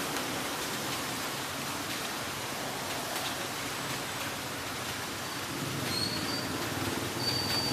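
Heavy rain as a steady hiss with a few faint drop ticks. About two-thirds of the way through, a low rumble swells and a thin high-pitched squeal sets in.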